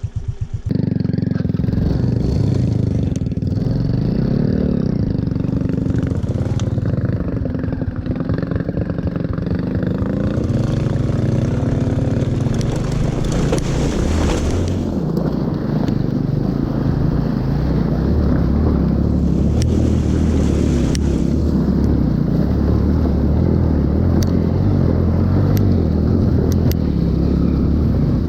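Motorbike engine pulling away from idle, then running under way, its pitch rising and falling with the throttle, with wind and road noise.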